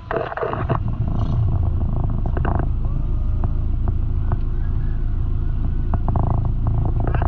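Vehicle engine idling steadily, a low rumble that comes up about a second in and then holds even.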